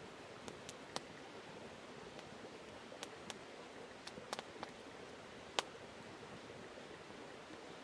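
Campfire crackling: scattered sharp, irregular pops over a steady faint hiss.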